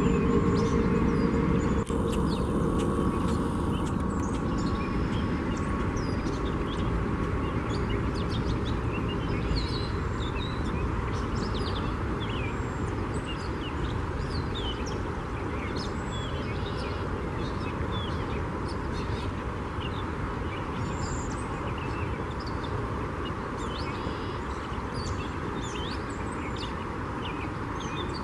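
Many short, high bird chirps scattered throughout, over a steady background hiss.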